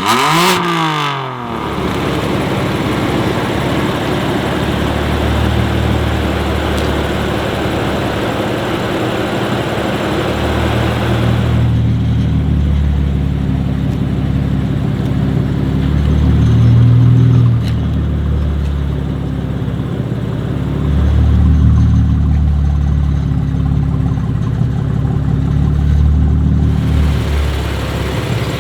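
BMW M2 Competition's twin-turbo straight-six, fitted with TTE740+ turbos and an Akrapovič exhaust, revving up and back down at the start, then running on with a low drone that swells and eases. A loud hiss rides over it for about the first ten seconds, then drops away, leaving the engine's steady low note.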